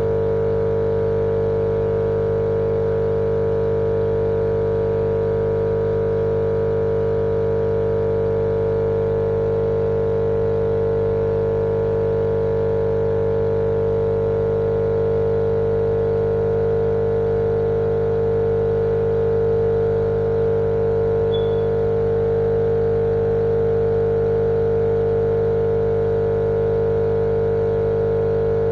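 Steady, unchanging motor hum with one strong mid-pitched tone over several lower ones.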